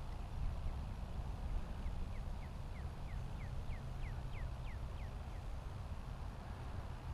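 Low rumble of wind on the microphone in an open field. From about two seconds in, a bird sings a run of about a dozen short falling notes, about three a second, swelling and then fading.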